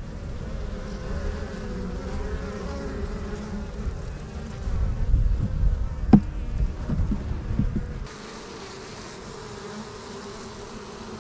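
Swarm of honeybees buzzing around a hive, a steady hum whose pitch wavers. A low rumble with a few knocks underlies it until about eight seconds in, when it stops abruptly and the buzzing goes on alone.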